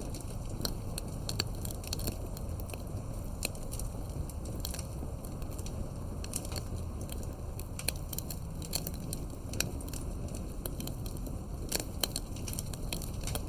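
Campfire of burning wood logs crackling, with irregular sharp pops and snaps over a steady low rumble of the flames.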